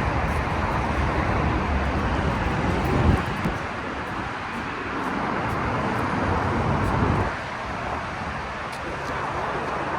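Steady low rumble of a car and road noise, briefly louder about three seconds in and quieter near the end.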